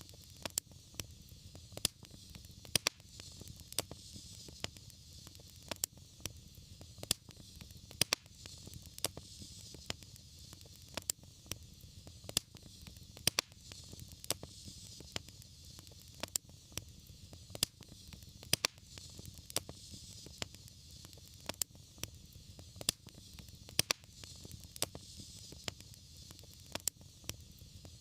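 Fire burning in a fireplace, crackling with irregular sharp pops, several a second, some much louder than others, over a steady soft hiss and a low rumble of the flames.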